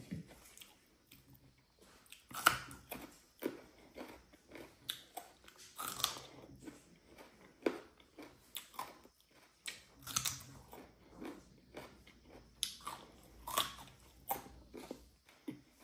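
A person chewing and biting food close to the microphone, with irregular wet chewing and a few louder crunchy bites.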